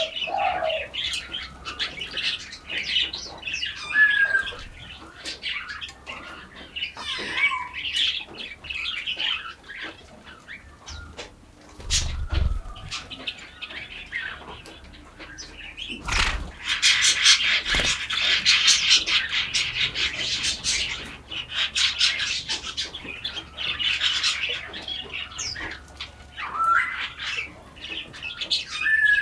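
Forest birds calling and chirping, with short whistled notes that glide up and down. About halfway through, a dense, rapid chattering sets in for several seconds. Two dull thumps come before it.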